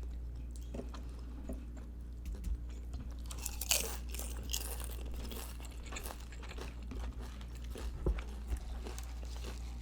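Close-miked chewing of food with small crunches and wet mouth clicks, the loudest cluster a little under four seconds in, over a steady low hum.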